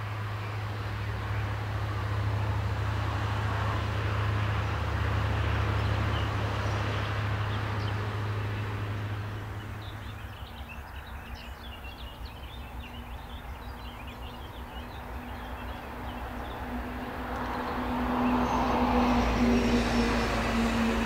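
A train rolling past on the line, a steady rushing noise with a low hum underneath, fading away about halfway through. Birds chirp faintly in the lull, then another vehicle comes up and gets louder near the end, with a steady mid-pitched tone.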